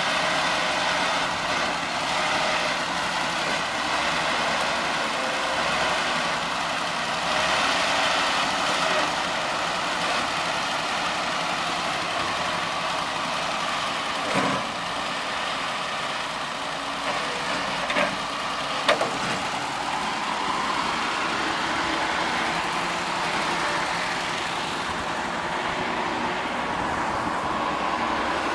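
A vehicle engine running steadily, with a few short knocks around the middle.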